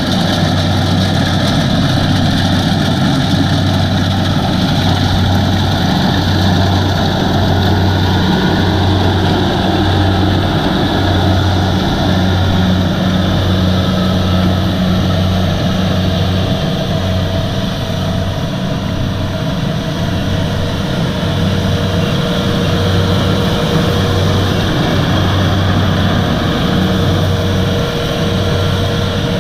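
Kubota DC-70 combine harvester's diesel engine running steadily, a loud low drone with an even, slow pulsing throughout.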